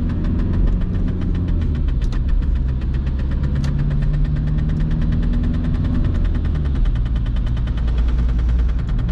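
Inside the cabin of a moving VW Golf Mk3 with the 1.9 TDI four-cylinder turbodiesel running, over which a rapid, even clatter of about ten knocks a second goes on without a break. The clatter is the fault the owner calls not a good sound, put down to the handbrake cable touching the rear tyre.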